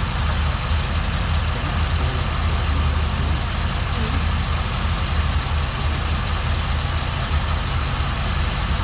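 2008 Impala SS's 5.3 L V8 idling steadily, running on freshly replaced AFM lifters that have pumped up.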